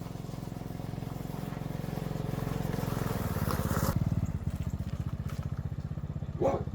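Small motorbike engine running, revving up briefly about three seconds in and then settling back to a steady run. A dog barks once near the end.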